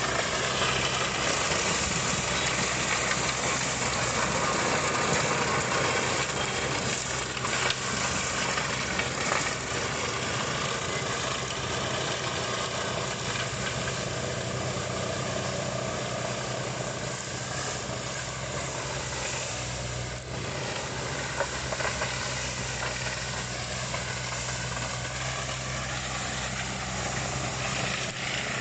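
Remote-controlled forestry mulcher robot's engine running steadily under load, a constant low hum beneath a dense mechanical rush, with a few brief knocks a third of the way through.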